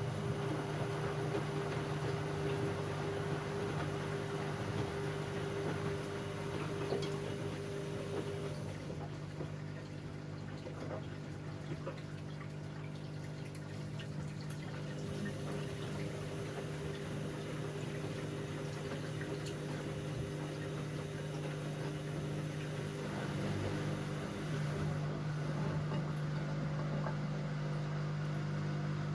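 Bauknecht WA Aquaton 1400 washing machine running: a steady electric hum with water moving through the machine.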